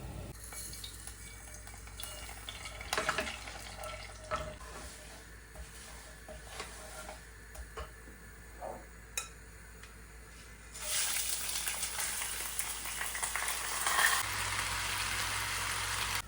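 Kitchen work sounds: utensils clinking and knocking against pots and dishes. About two-thirds of the way in, a louder steady hiss sets in and carries on.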